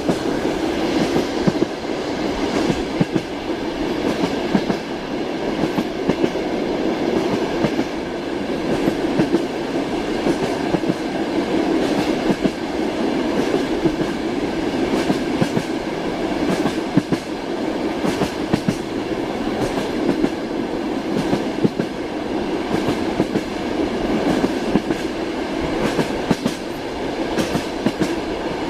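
Train wheels clattering over the rail joints under a steady rumble, heard from inside a passenger compartment, with frequent irregular clicks throughout.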